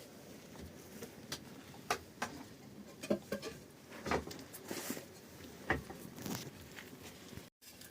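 Sparse, irregular light taps and knocks, about a dozen over several seconds, over a faint background hiss.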